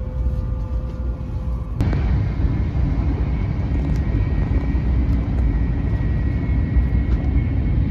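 Steady rumble of a Taiwan High Speed Rail 700T train at speed, heard from inside the passenger carriage, with a faint steady whine over it. About two seconds in there is a click and the rumble becomes abruptly louder.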